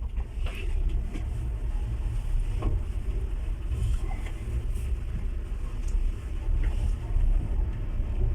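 Passenger train running, a steady low rumble with a few faint clicks and knocks over it.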